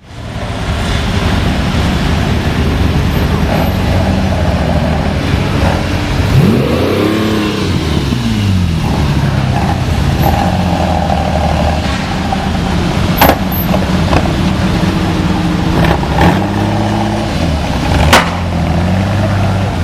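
Lamborghini Miura SV's 3.9-litre V12 running, revved and let fall back twice, about a third of the way in and again near the end, with a couple of sharp cracks between.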